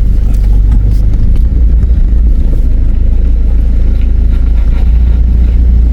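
Four-wheel-drive vehicle driving along a rough dirt track, heard from inside the cabin: a steady, loud low rumble of engine and tyres with scattered knocks and rattles.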